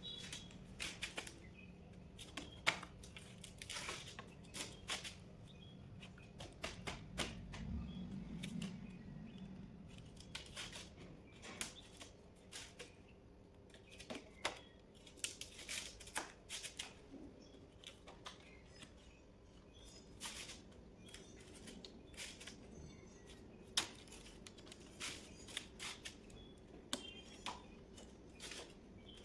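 Irregular light clicks and taps of parts and tools being handled, at times several in quick succession.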